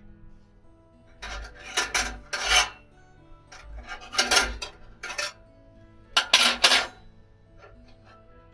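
Three rasping scrapes, each lasting about a second, a couple of seconds apart, over quiet background music.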